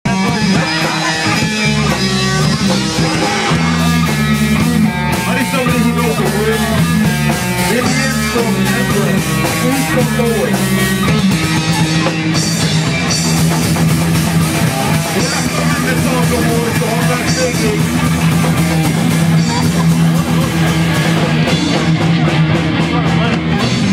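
Punk band playing live and loud: distorted electric guitar riffing over bass and drums, the riff changing and settling onto a steadier low note about halfway through.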